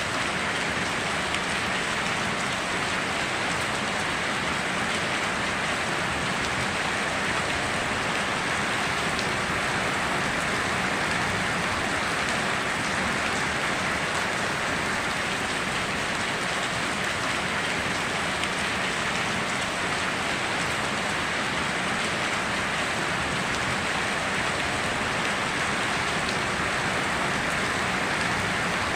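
Steady heavy rain falling, an even hiss of drops on surfaces with no thunder or breaks.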